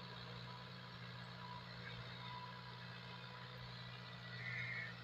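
Fiat 640 tractor's diesel engine running steadily, a faint even low hum. A brief higher sound comes near the end.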